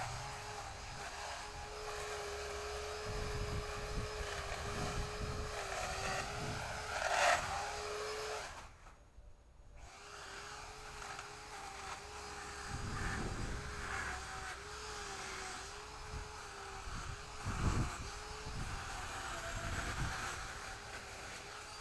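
Chainsaw running at a steady high speed with a whine, its pitch wavering slightly. It breaks off briefly about nine seconds in, then resumes.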